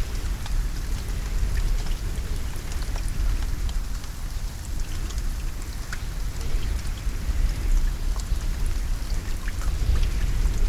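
Steady rainfall with many individual drops ticking, over a constant low rumble.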